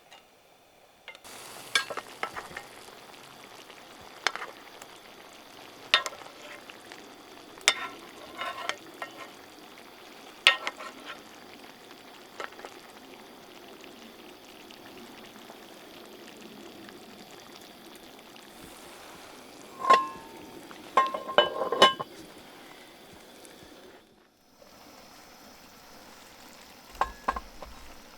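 Food frying in a pan over a fire: a steady sizzle with scattered clicks and a few metallic clinks of a utensil against the pan. The sizzle stops suddenly about four seconds before the end.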